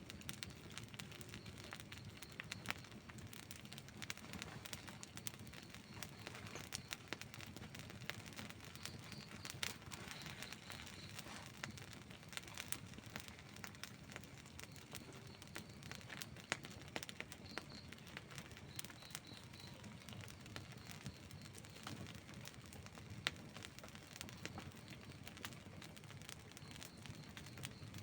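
Wood fire burning in the open: a soft steady hiss with frequent small crackles and pops, and a few sharper pops now and then.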